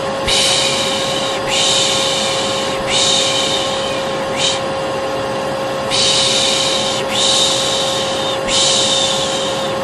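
A steady vacuum cleaner hum with a constant whine, overlaid by a person's repeated 'shh' shushing. The shushes come about once a second, mostly about a second long, with one short one near the middle. Together they form a baby-soothing 'piş piş' white-noise loop.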